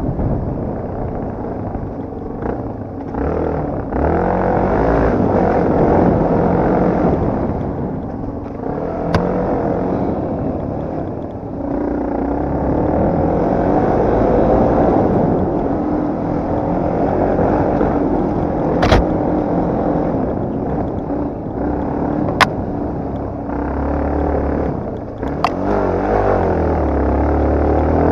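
Yamaha TT250R's single-cylinder four-stroke engine, ridden off-road, its revs rising and falling with the throttle and gear changes. A few sharp knocks cut through it.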